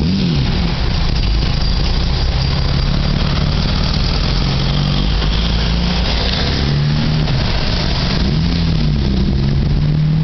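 Road vehicle engines running and revving, their pitch rising and falling several times, as a vintage coupé pulls away and a delivery van passes close by, over a steady low rumble.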